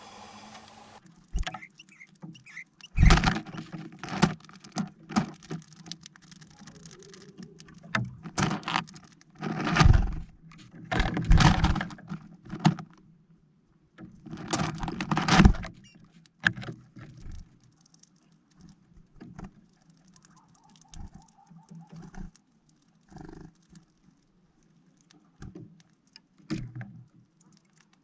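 Irregular tapping, scraping and clattering of birds feeding at a plastic-bottle feeder, pecking and scrabbling at sunflower seeds. Several loud bursts of clatter come in the first half, followed by sparser small ticks.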